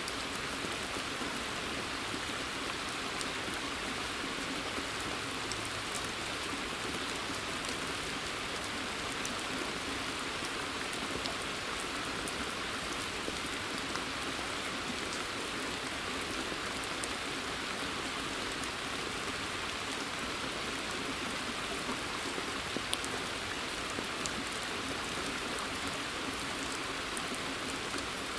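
Steady rain falling on leaves and pond water: an even hiss with scattered sharp drip ticks.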